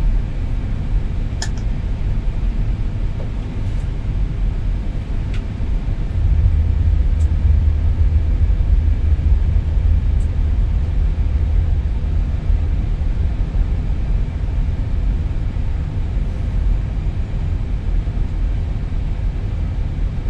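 Airbus A320neo jet engines heard from the cockpit during engine start: engine 1 spooling up while engine 2 runs. A steady low rumble that grows louder about six seconds in, with a few faint clicks.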